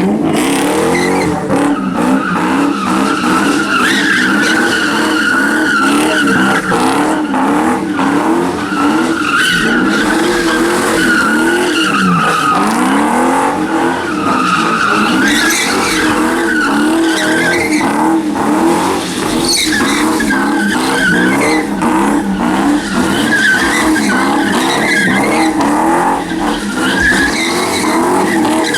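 A car doing donuts: its V8 engine revving up and down in waves about once a second while the rear tyres squeal continuously against the pavement.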